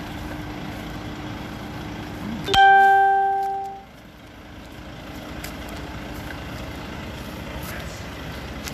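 Steady running of a stationary lorry's engine, broken about two and a half seconds in by one loud pitched tone, a ding-like note that fades over about a second and then stops.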